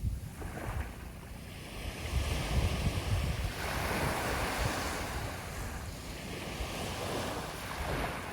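Sea waves breaking and washing up the shore, a long swelling rush building about two seconds in and another smaller wash near the end, with wind rumbling on the microphone.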